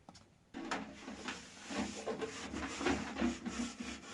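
Irregular scraping or rubbing strokes on wood, starting about half a second in.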